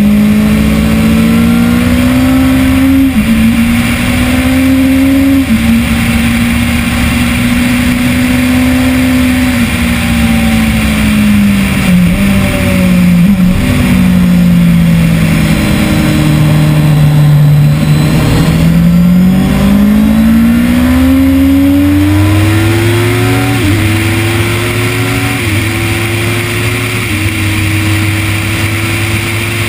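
Kawasaki ZX-10R inline-four sportbike engine at full track pace, heard onboard with wind rush. Its pitch holds high, sinks through the middle as the bike slows and changes down, then climbs again with several quick upshifts near the end.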